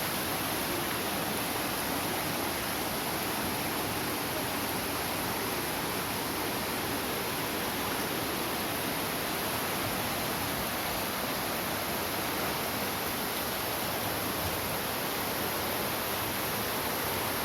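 Floodwater rushing in a steady, unbroken stream of water noise.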